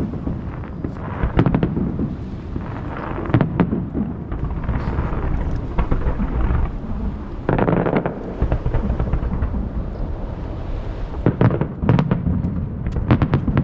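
Fireworks shot over the sea bursting one after another: deep booms with a rolling echo between them, and a quick run of sharp crackling reports near the end.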